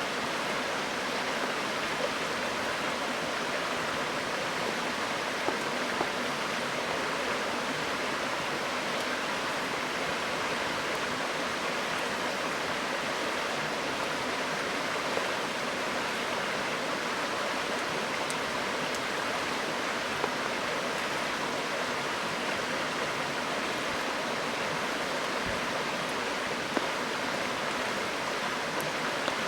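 River water rushing steadily over a stony bed, with a few faint sharp pops from a wood campfire crackling now and then.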